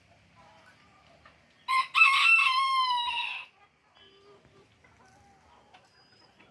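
A rooster crowing once, loudly: a short opening note, then a long drawn-out call of under two seconds that falls slightly in pitch at the end. Faint small chirps are heard around it.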